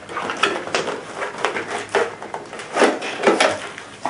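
A box being opened and its contents handled: irregular rustling, scraping and light knocks of packaging.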